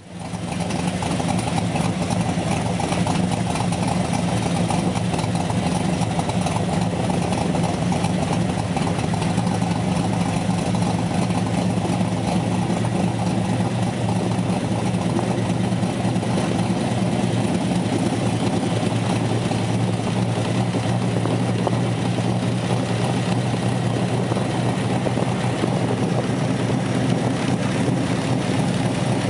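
1963 Chevrolet Corvette Stingray's 327 small-block V8 running steadily at low revs as the convertible rolls slowly, heard from just outside the driver's window.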